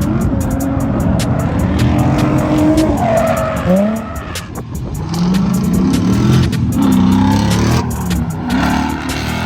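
Ford Mustang (S550) being driven hard in a drift run: the engine revs rise and fall again and again, with tyres squealing and skidding.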